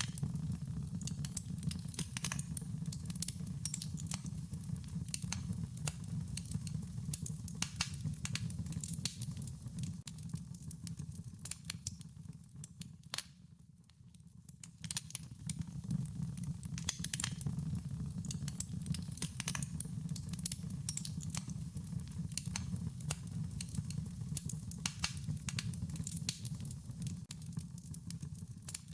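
Wood fire crackling, with frequent sharp pops and snaps over a steady low rumble of burning; the fire goes briefly quieter about halfway through.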